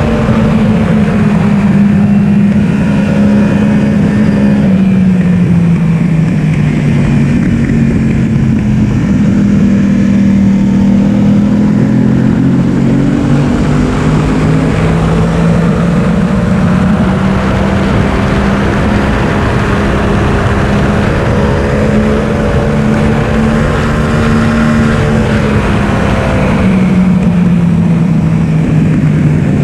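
Yamaha R1's inline-four engine heard onboard, running continuously with its pitch drifting slowly up and down rather than sharp revving, under heavy wind rush.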